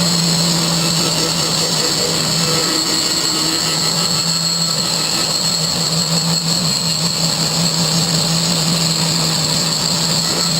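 Angle grinder running at speed with a grinding wheel on mild steel, grinding off mill scale. A steady motor hum sits under a bright, hissing grind. The wheel rides with almost no pressure, just the grinder's own weight.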